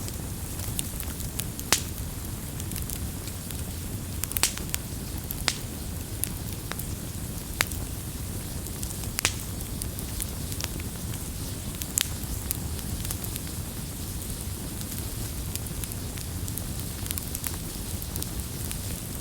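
Wood fire burning with a steady low rumble, crackling and popping irregularly, with a few sharper pops standing out.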